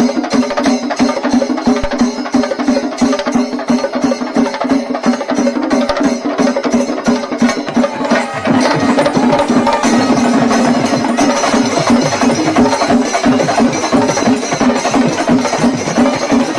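Kerala temple festival percussion ensemble, drums with hand cymbals, playing a fast, dense rhythm that becomes fuller and louder about eight seconds in.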